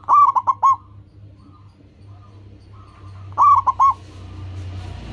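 Zebra dove (local perkutut) cooing: two phrases about three seconds apart, each a longer opening note followed by a few quick short notes. Fainter coos from another dove can be heard between them.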